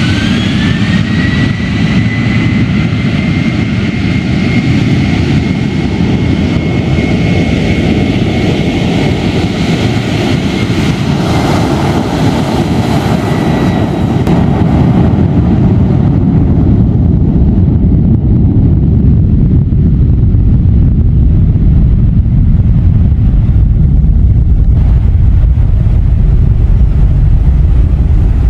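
Jet aircraft engine noise: a loud roar with a whine that settles to a steady pitch. About halfway through, the whine fades and a deeper, louder rumble takes over.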